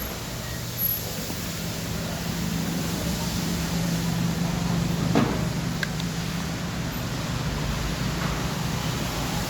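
A car engine idling steadily with a low hum, and one sharp click about five seconds in.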